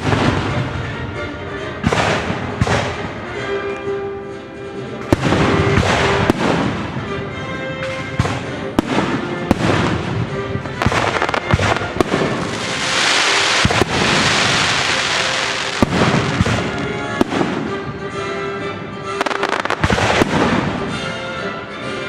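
Fireworks bursting in a rapid series of loud bangs over orchestral music, with a dense hiss lasting about three seconds past the middle.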